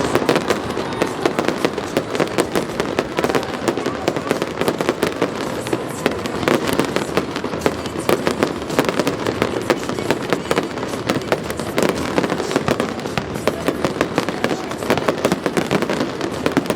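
Aerial fireworks going off in a rapid, unbroken barrage of many sharp bangs and crackles.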